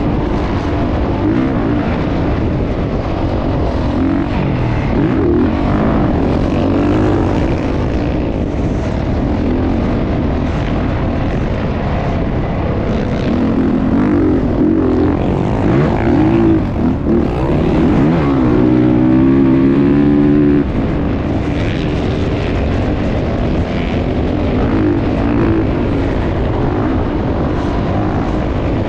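Motocross dirt bike engines running and revving, the pitch rising and falling again and again. About two-thirds of the way through, one engine holds a steady high note for about two seconds, then drops away.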